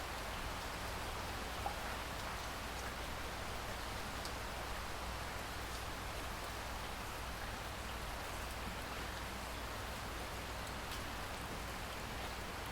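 Steady rain falling, an even hiss of rainfall with a few individual drops ticking through it.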